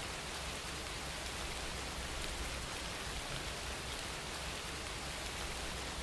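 Steady rain falling, a continuous even hiss of many drops with no separate hits standing out.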